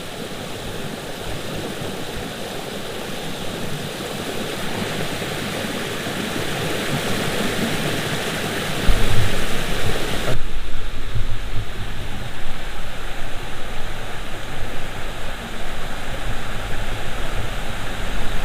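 Rushing river water spilling over small waterfalls, a steady hiss that grows slowly louder. About nine seconds in, a low rumble joins it, and a second later the sound changes abruptly and becomes duller.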